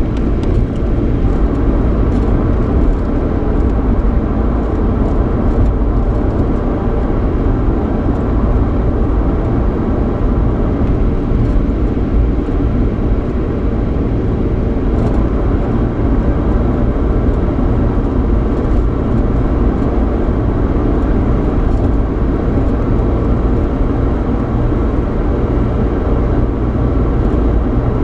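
Steady low road and engine hum heard inside the cabin of a moving Ford Mustang with a 3.8-litre V6.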